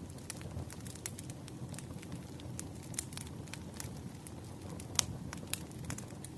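Wood fire crackling: irregular snaps and pops over a low steady rumble, with one sharper pop about five seconds in.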